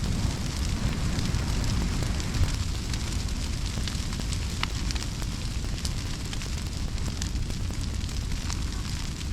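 Brush pile fire burning: a steady low rushing noise with scattered sharp crackles and pops.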